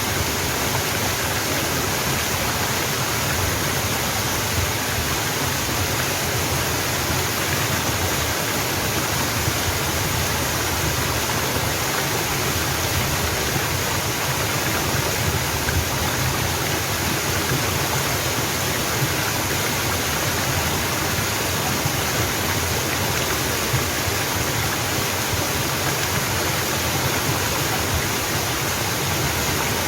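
Mountain waterfall: water falling and splashing in a steady, unbroken rush.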